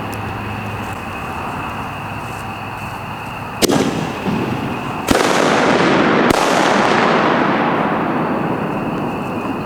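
Homemade aerial firework shells bursting: a sharp bang about three and a half seconds in, then a second bang a second and a half later that turns into a loud crackling hiss fading away over several seconds, with another sharp crack inside it.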